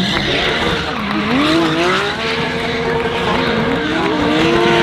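A GT3 race car doing donuts: its engine is held at high revs, dipping and climbing back about a second in and again about three and a half seconds in, over a continuous tyre squeal.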